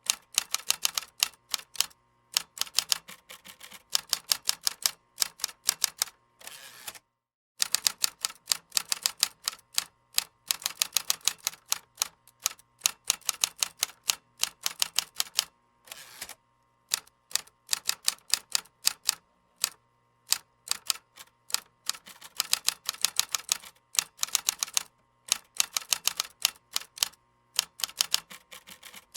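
Computer keyboard typing: quick runs of sharp keystroke clicks broken by short pauses. The sound cuts out completely for about half a second around seven seconds in.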